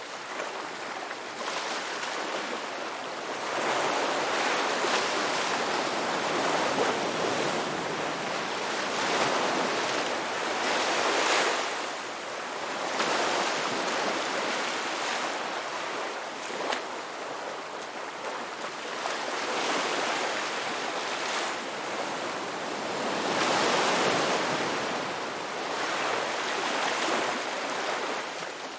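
Ocean surf: waves breaking and washing ashore in a steady rolling rush that swells and ebbs every few seconds.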